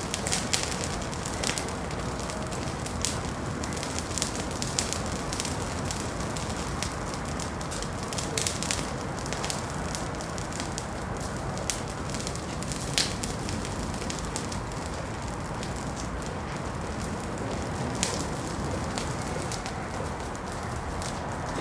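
Wood fire crackling in a fireplace: a steady low rush of flame with irregular sharp pops and snaps, a few a second.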